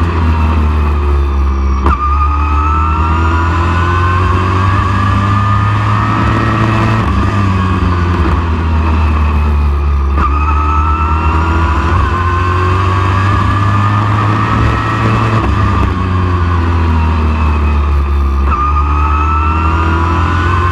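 Super Truck race engine running hard in laps: its pitch climbs steadily down each straight, then drops sharply as the driver lifts for the turns. This happens about every eight seconds, over a constant low rumble.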